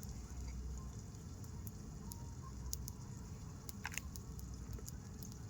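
Faint scattered crackles and small pops from a wood cooking fire with garlic and onion frying in a pan over it, a few grouped about four seconds in, over a low steady rumble.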